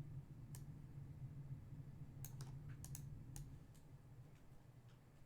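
Scattered light clicks of a computer keyboard being tapped, a few keys at a time, over a low steady hum.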